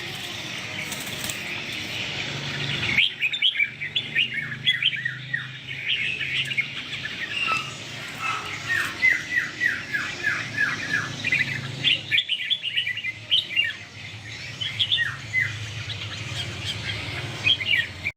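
Red-whiskered bulbuls singing: rapid runs of short, sharp chirping notes, many sliding downward in pitch. The background changes abruptly about 3 s in and again about 12 s in.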